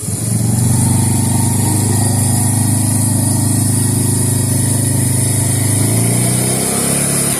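Suzuki Eiger 400 ATV's single-cylinder four-stroke engine revving up just after the start and held at steady throttle, easing off about six seconds in.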